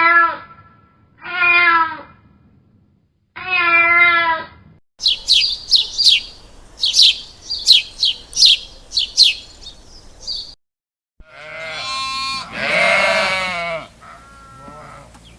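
Separate clips of animal calls: three short, quavering bleats, then a run of rapid, high-pitched bird chirps for about five seconds, then a longer bleat and a fainter call near the end.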